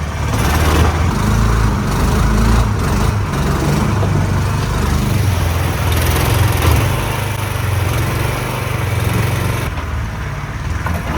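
Air-cooled mud-boat motor running steadily and loudly, driving the boat through thick mud and over saplings that bend under the hull.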